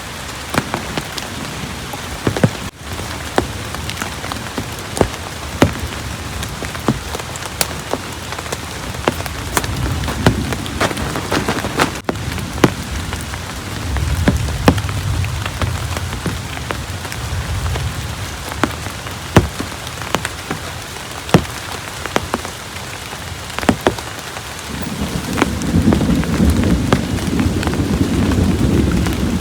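Heavy rain falling steadily, with many large drops landing in sharp, separate hits. Low thunder rumbles come and go, swelling about ten seconds in and again around fourteen seconds, then building near the end.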